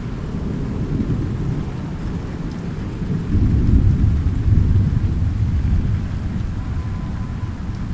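Thunder rumbling low through steady rain, swelling louder from about three seconds in and fading back by six.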